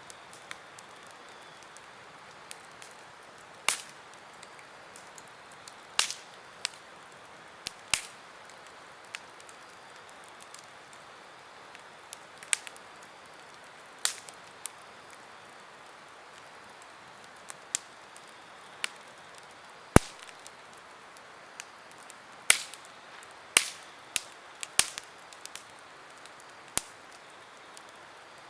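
Campfire burning and crackling: irregular sharp pops and snaps, some loud and some faint, over a faint steady hiss, with the loudest pop about two-thirds of the way through and a quicker run of pops after it.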